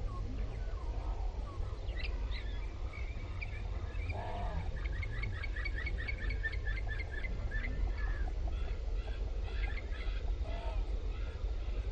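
Birds chirping, with a rapid run of short high chirps, about five a second, lasting several seconds, and a few scattered calls before and after, over a steady low rumble.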